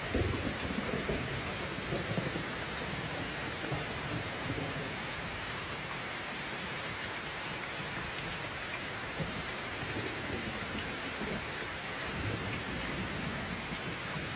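Steady heavy rain falling and pattering on surfaces, with low rumbles of thunder rolling in right at the start and again in the second half.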